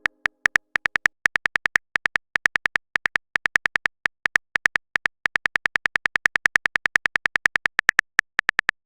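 Typing sound effect: a quick run of short, pitched key clicks, about six or seven a second, with brief pauses between bursts.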